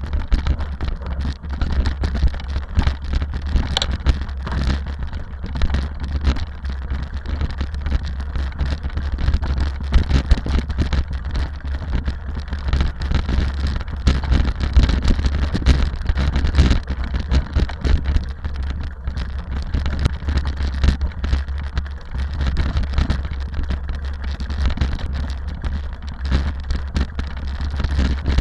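Rally car driving: a steady low rumble of engine and road noise, with a constant scatter of small rattles and clicks.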